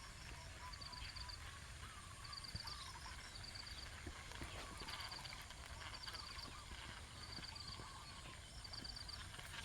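Faint outdoor ambience of animal calls: a short, high chirping trill repeating about once a second, with softer warbling calls beneath and a low rumble.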